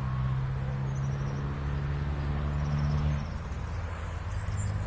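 A motor vehicle's engine running steadily nearby as a low hum, cutting out about three seconds in, with faint bird chirps above it.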